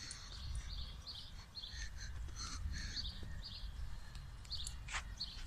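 Small birds chirping in quick short calls again and again, over a steady low rumble. A single sharp click about five seconds in.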